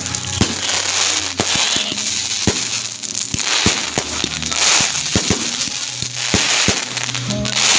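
Fireworks going off: a quick, irregular string of sharp bangs with crackling hiss between them.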